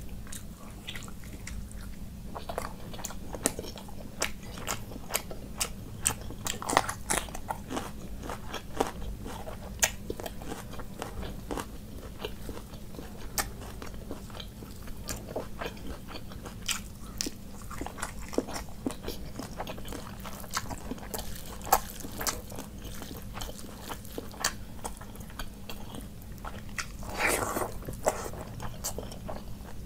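Close-up eating sounds: a person chewing and biting into fried fish and rice eaten by hand, with many small crunches and wet mouth clicks. Near the end there is a longer, louder smacking sound, and a steady low hum runs underneath.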